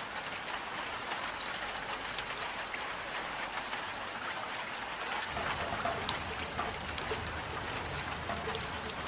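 Steady rain falling, with scattered individual drops ticking; a low rumble joins about halfway through.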